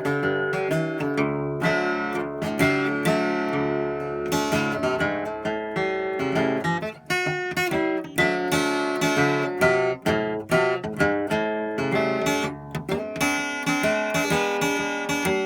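Taylor 320e baritone acoustic guitar played solo, a run of picked notes and strummed chords in its low baritone tuning, with a couple of brief breaks in the playing.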